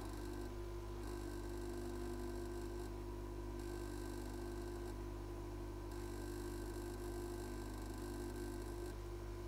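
Steady electrical hum from workbench equipment, with a high electronic whine that cuts in and out every two to three seconds.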